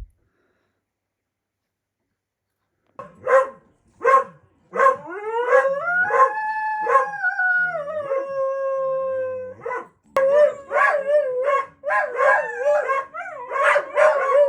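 A pet dog barking twice, then howling: one long howl that rises in pitch, holds and sinks, followed after a short break by more wavering howls.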